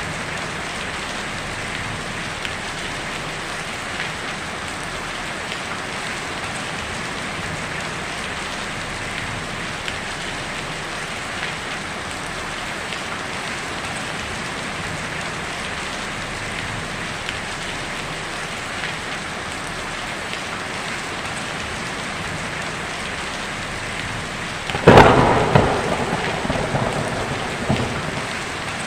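Heavy rain drumming steadily on a tin roof, with scattered louder drops. About 25 seconds in a sudden loud thunderclap cracks and then rolls off over a few seconds, swelling once more before fading back under the rain.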